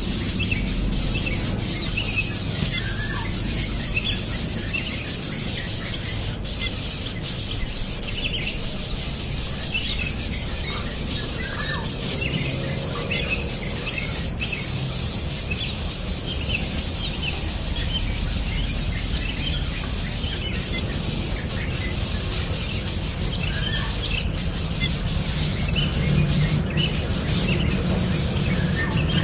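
Baby birds in the nest giving short, high squeaky peeps at irregular intervals throughout. A steady, high, insect-like drone runs underneath.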